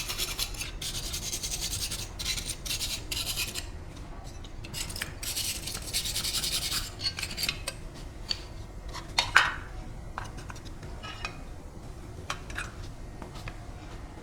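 Hand scraping or sanding on a metal compressor part in a run of strokes, then light metallic clicks and one sharp metal clank with a brief ring about nine seconds in.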